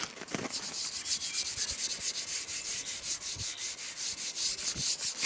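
Green abrasive scrub pad scuffing a painted sawmill track rail in quick back-and-forth strokes, about seven a second, roughing up the old paint so the next coat will stick.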